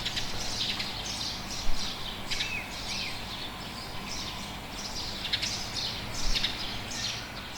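Small birds chirping in repeated short, high calls over steady low background noise.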